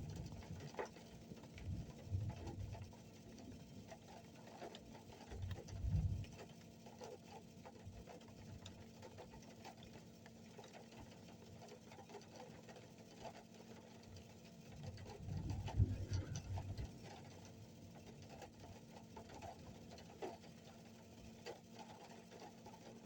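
Distant thunder: three low rumbles, one about two seconds in, a short one about six seconds in, and the longest and loudest about fifteen to seventeen seconds in, over a faint steady crackle and a low hum.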